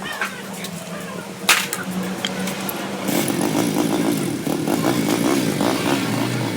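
A steady low hum with a single sharp knock about a second and a half in, then from about three seconds a small engine running louder, its pitch wavering up and down.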